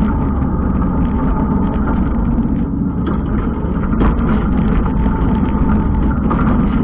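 Kubota skid steer's diesel engine running steadily.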